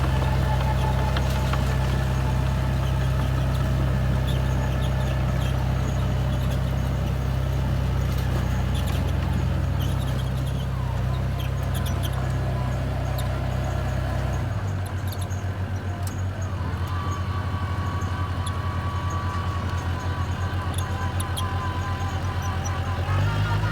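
Bulldozer's diesel engine running steadily. About two-thirds of the way through it drops to a lower, pulsing note, then steps back up just before the end. Faint clicks and squeaks come from the machine throughout.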